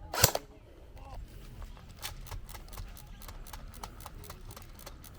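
A single BB gun shot: one sharp crack about a quarter of a second in. Faint, irregular ticks follow.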